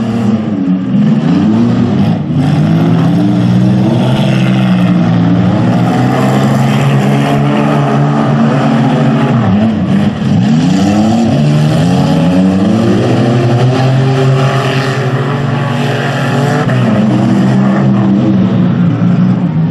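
Several figure-8 demolition derby cars' engines running hard together, their pitches rising and falling as they accelerate and back off.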